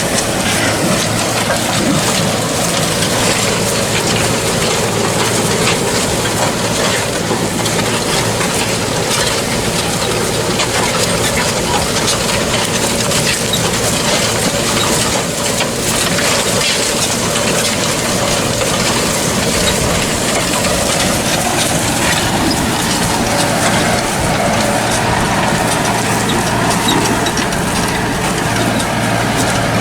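A tractor ploughing, its engine running steadily under load, with footsteps crunching over dry, cloddy ploughed soil.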